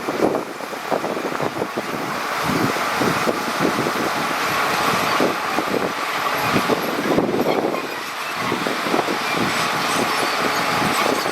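Heavy diesel earthmoving machinery running steadily at work, its engine noise rising and falling.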